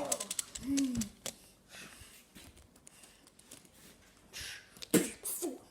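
Scattered light clicks and rustles of toy monster trucks being handled on a plastic track. A short vocal sound comes about a second in and again near the end.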